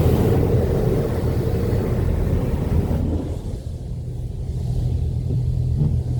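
Automatic car wash equipment running during the sealant stage: a steady low rumble and hum with a spray hiss over it. About halfway through, the hiss fades away and the low hum carries on alone.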